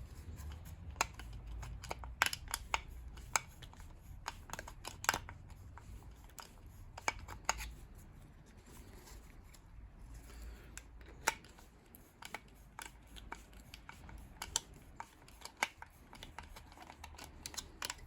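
Hand tools working a stubborn brass piece slowly out of a boiler part: irregular sharp clicks and taps, over a low rumble that fades about halfway through.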